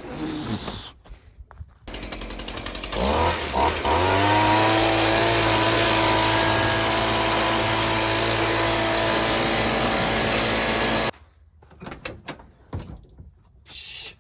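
Leaf blower starting about two seconds in, spinning up with a rising pitch, then running steadily at full speed before cutting off sharply about eleven seconds in.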